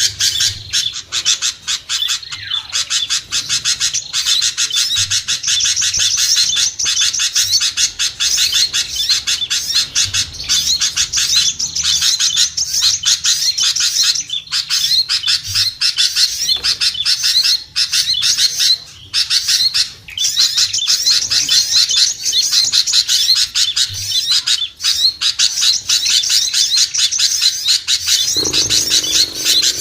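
Many small songbirds chirping rapidly and without a break, their calls overlapping in a dense, noisy chatter: a bird-lure recording for small birds. A brief lower sound cuts in near the end.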